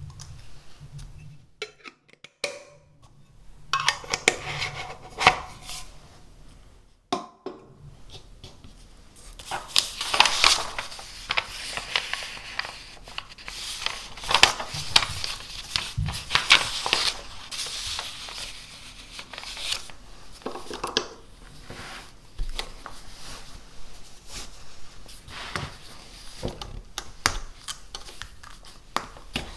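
Desk sounds: small hard objects are handled and set down with clicks and clinks, and there are scratchy, rustling stretches of stationery and paper being handled.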